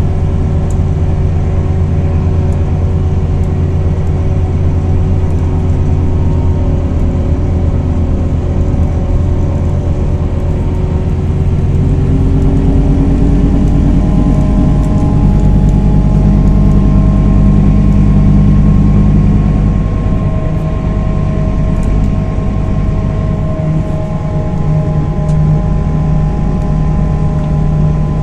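A Scania Irizar i4 bus's 320 hp Scania diesel engine, heard from on board, running steadily while the bus is driven. The engine note changes about twelve seconds in, as with a gear change of the ZF six-speed automatic. The sound grows somewhat louder, then eases off near twenty seconds in.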